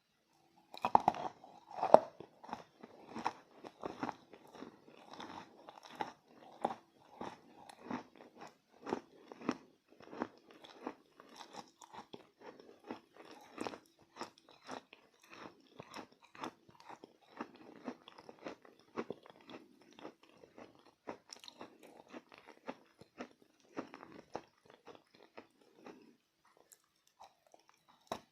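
Edible chalk bitten and chewed close to the microphone: two sharp crunching bites near the start, then steady rhythmic chewing crunches that stop shortly before the end.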